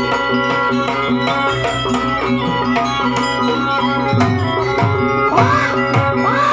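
Live jaranan ensemble music: hand drums beating a busy pattern over sustained ringing gong and metallophone tones. A bending, wavering melodic line joins about five seconds in.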